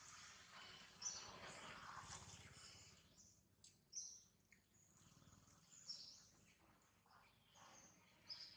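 Faint outdoor ambience with a few short, high bird chirps, about one every two seconds, over a soft hiss that fades after the first three seconds.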